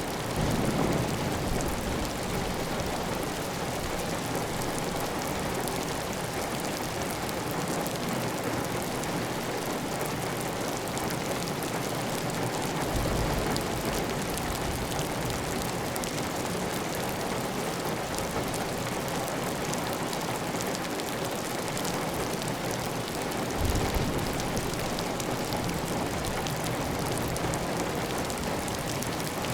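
Heavy, steady rain falling on a clay-tile roof, with water running off the roof edge. A few brief low rumbles come through the rain, one near the start, one about halfway and one later on.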